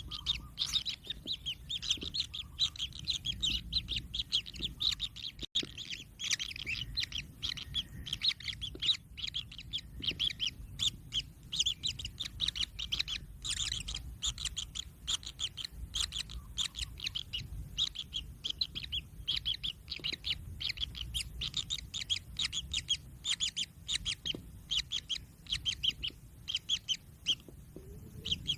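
Kingfisher chicks chirping constantly: a dense run of rapid, high chirps with hardly a break.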